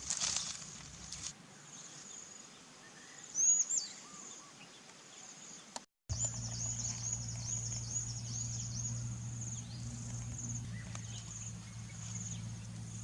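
Outdoor ambience: a steady high insect drone with birds chirping over it, one loud call about three and a half seconds in and a quick run of chirps after six seconds. A sharp cut just before six seconds, then a steady low hum underneath.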